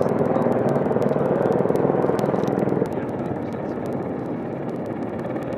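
AH-64 Apache attack helicopter noise: a steady drone of rotor and turbines, dropping somewhat in level about three seconds in.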